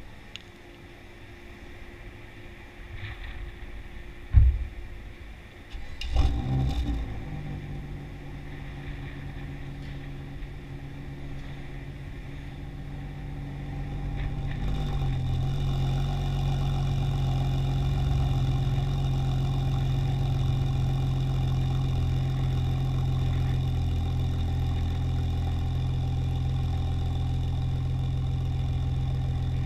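A single sharp thump about four seconds in, then the BMW 335i's turbocharged inline-six starts about six seconds in, flares briefly and settles into a steady idle through a catted downpipe and modified factory muffler. About halfway through, the idle grows louder and then holds steady.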